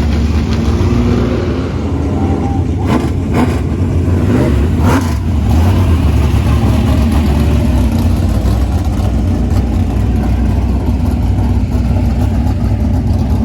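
Race car engines running steadily, with a few sharp knocks about three and five seconds in.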